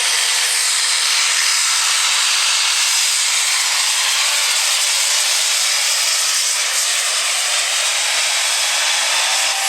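Super stock diesel 4x4 pulling truck running at full power down the track: a loud, steady hiss with no change over the whole stretch.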